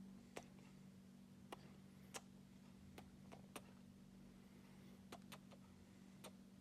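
Near silence over a steady low hum, with about ten faint, sharp clicks at irregular intervals.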